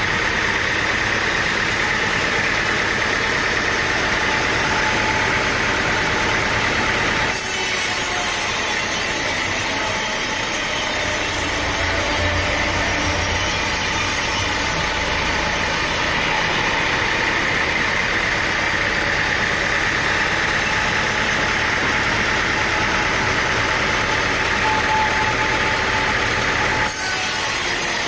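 A sawmill's engine runs steadily while its saw cuts through a large stump. The sound changes abruptly twice, about seven seconds in and near the end.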